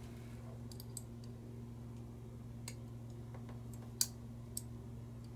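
A few scattered light clicks and ticks of small lighter parts being handled and fitted by hand, the sharpest about four seconds in, over a steady low hum.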